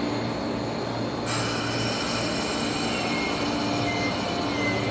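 KCR East Rail electric multiple-unit train pulling into the platform, running past with a steady low hum. About a second in, a sudden high hiss sets in, and thin high wheel squeals come and go near the end as the train slows.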